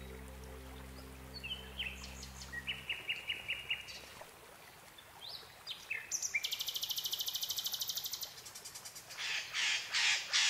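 Background music fading out about three seconds in, then wild birds calling outdoors: scattered chirps, a fast even trill, and a few loud repeated calls near the end.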